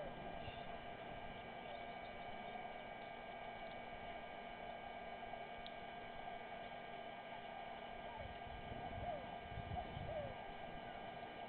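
Steady electrical hum made of several fixed tones, over a faint hiss of background noise. A few faint short chirps and some low rumbling swells come near the end.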